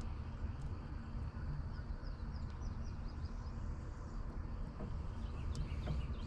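Small birds chirping, short high falling notes in quick series, over a steady low rumble.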